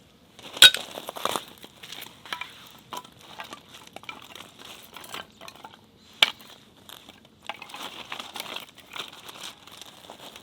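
Hands crinkling and rustling paper or packaging, with scattered small clinks and two sharp knocks, about half a second in and about six seconds in.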